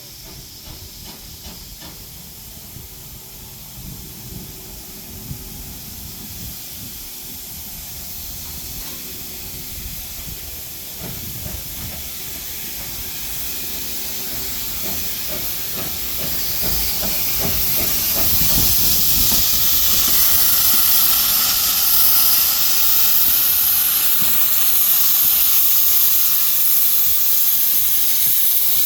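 Steam locomotive hissing steam, the hiss growing steadily louder and loudest over the last third, with soft low knocks in the middle as the engine moves.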